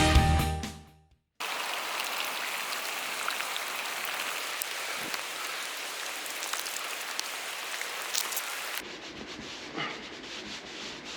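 Backing music fades out in the first second, then a steady hiss of heavy rain with scattered drips runs for about seven seconds. It cuts off abruptly, leaving a quieter, duller background with a few soft knocks.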